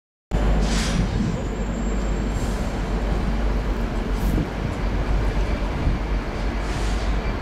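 Class 66 diesel-electric locomotives, EMD two-stroke V12 engines, running together as a light engine move: a loud, steady deep rumble, with a few brief high hisses over it.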